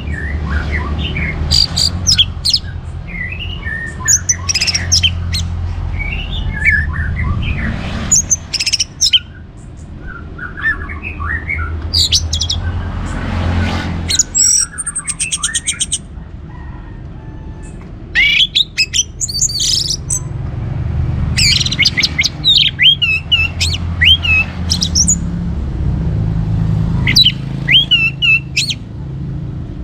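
Orange-headed thrush (Anis Merah) singing loudly in full song: a long run of varied whistled, sweeping and chattering phrases in bouts with brief pauses, over a steady low hum.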